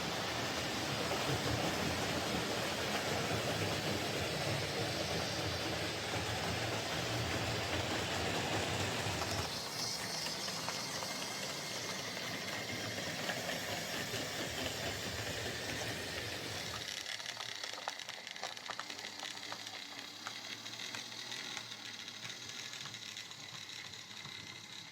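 OO gauge Mainline Dean Goods model locomotive running on the track. Its tender-driven ringfield motor bogie makes a steady mechanical whirr of motor and gears, a bit noisy, which is just the noise these motors make with many plastic gears. The sound drops in level twice, about ten seconds in and again about two-thirds of the way through.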